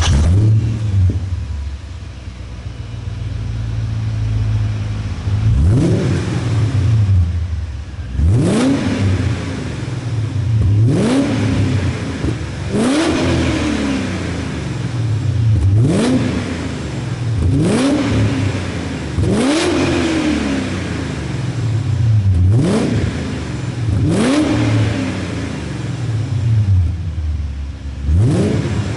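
BMW 540's V8 running through an aftermarket Magnaflow 2.5-inch exhaust with a resonator and muffler: it idles for about five seconds just after starting, then is revved about ten times, roughly every two to three seconds, each rev a quick rise in pitch that falls back to idle.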